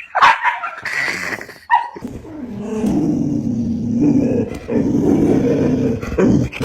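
A dog gives a few short high yelps or barks, then growls low and long, with one short break in the growl.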